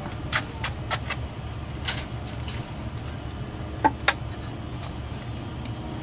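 A steady low hum with scattered light knocks and clicks; two sharper knocks come close together about four seconds in.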